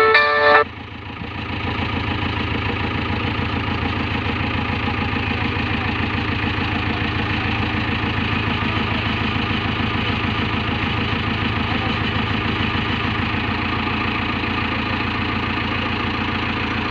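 Heavy diesel engine idling steadily with an even firing rhythm. A brief loud multi-tone blast cuts off under a second in.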